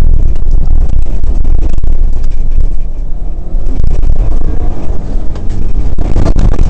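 Rally car engine running hard, heard from inside the cabin, with loose stones clattering against the car throughout. The engine backs off briefly about three seconds in, then revs up again.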